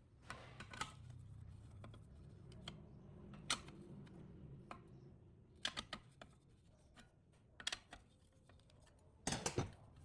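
Scattered light clicks and taps of small parts and hand tools being handled at a workbench, with a quick cluster of clicks near the end, over a faint low hum that fades out about halfway through.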